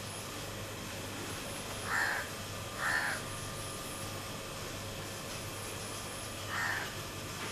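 A bird calls three times: two short calls about a second apart, then a third near the end, over a steady low background hum.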